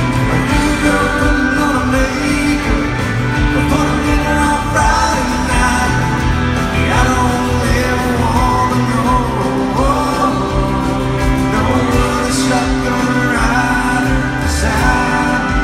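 A live country band playing in a large arena, with a male lead vocal singing over sustained bass notes and drums, recorded from the audience.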